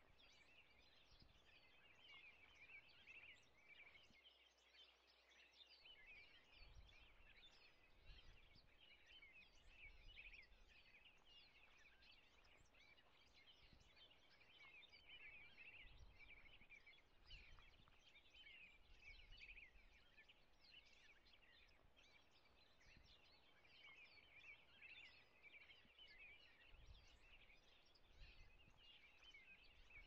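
Faint, constant chirping and twittering of small birds, with a few soft low bumps.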